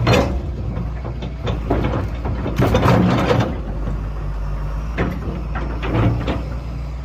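Hitachi UH083-LC hydraulic excavator's diesel engine running steadily, with several bursts of noise as the bucket is worked against firewood rounds to split them. The biggest burst comes a little under three seconds in.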